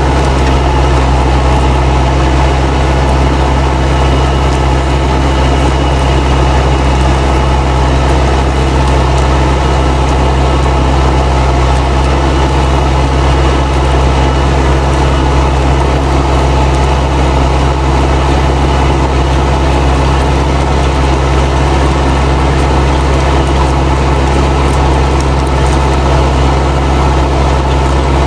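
Fendt 307 Ci tractor's turbocharged diesel engine running steadily under load while pulling a plough, with the turbo whistling over the engine note.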